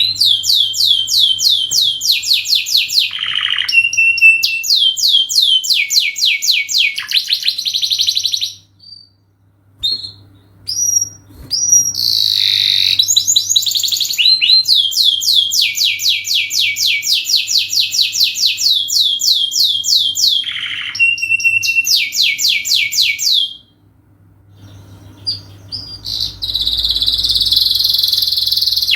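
Domestic canary singing a long song of rapid trills, each a fast run of repeated falling notes, with two short breaks, about a third of the way in and again near the end.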